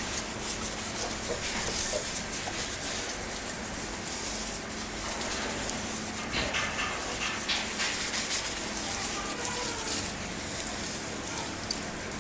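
Water hose spraying a steady hiss of water over a horse, rinsing the sweat off its coat.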